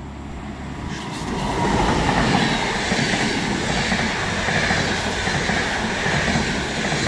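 ÖBB passenger train hauled by a red electric locomotive passing at speed: the sound swells about a second in as the locomotive draws level, then the coaches run past with a steady rush and rumble of wheels on rails.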